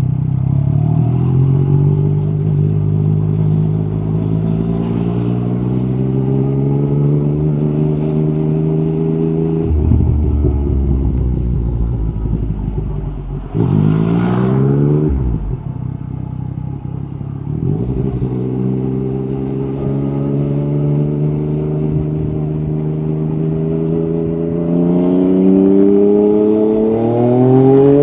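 Yamaha MT-09 SP's inline-three engine through an Akrapovic carbon exhaust, pulling steadily up in pitch under throttle. About ten seconds in it drops off throttle, revs quickly up and back down around fourteen seconds, then pulls up again, climbing faster near the end.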